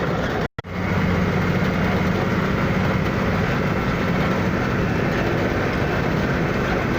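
An engine running steadily with a low, even drone; the sound cuts out for an instant about half a second in.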